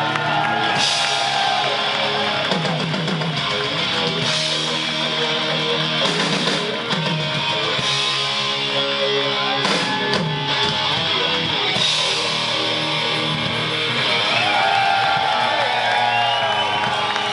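A live rock band plays an instrumental passage: an electric guitar with bending, gliding lead notes over rhythm guitar, bass and drums.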